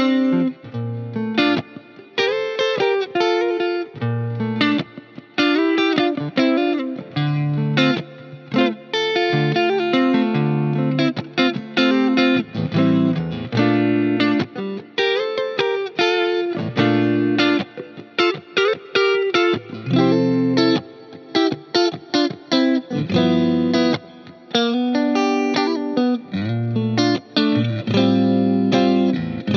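Fender Player Plus Top electric guitar playing a lead over a backing track: phrases of many quick picked notes broken by short pauses.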